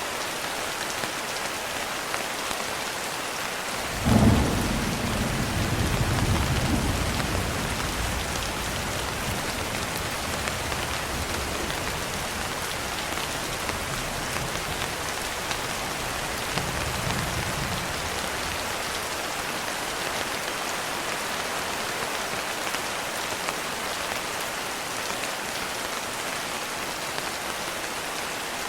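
Steady rain falling, with a sudden clap of thunder about four seconds in that rolls on as low rumbling for several seconds; a fainter rumble of thunder comes later.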